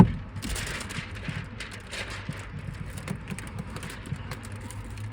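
A sharp knock, then irregular light taps and rustling as window tint film is handled against the truck's rear glass, over a low steady hum.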